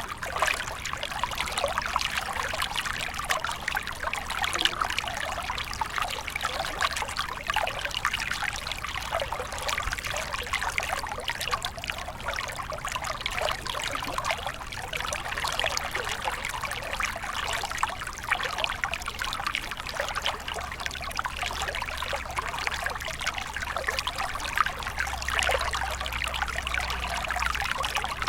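Small stream flowing and trickling steadily, a continuous bubbling splash of water over stones.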